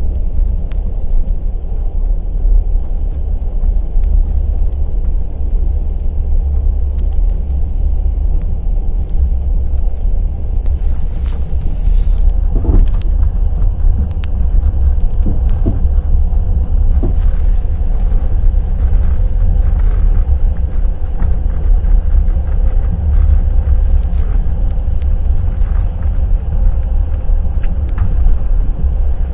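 Wheels of the night express passenger train No. 202 Kovel–Kyiv running on the rails: a loud, steady low rumble with scattered clicks and knocks of wheel clatter.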